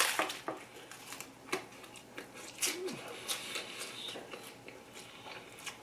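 Eating sounds picked up close: scattered small crackles, clicks and crunches of chewing and handling a sandwich, with a brief low hum about halfway through.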